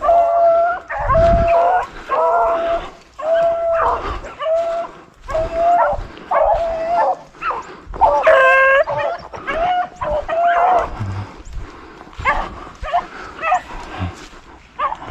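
Beagle hounds baying on a rabbit's scent: a run of drawn-out bawls, about one a second, each held on a steady pitch. A little over halfway through they break into shorter, choppier yelps.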